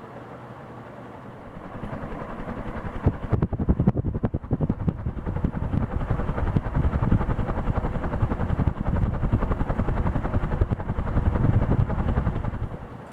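NuTone Proline II commercial ceiling fan running, its blade wash rushing and fluttering across the microphone in rapid low pulses. The rush swells about two seconds in and falls away near the end.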